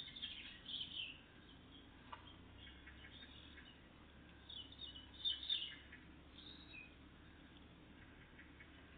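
Small songbirds chirping faintly: a quick cluster of short, high, falling notes at the start, and another cluster around five seconds in.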